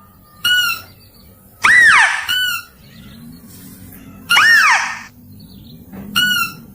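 Mouse-deer (kancil) calls from a lure recording, repeating every two to three seconds. Each is a short buzzy note followed by a louder call that rises and then falls in pitch.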